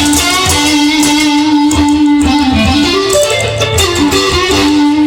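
Instrumental break in a rock song: electric guitar playing held, sustained notes over bass and drums.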